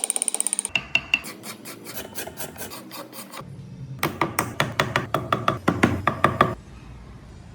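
Rasp or file scraping wood in quick back-and-forth strokes, about four a second, in two runs with a short pause about three seconds in; the strokes stop a little before the end.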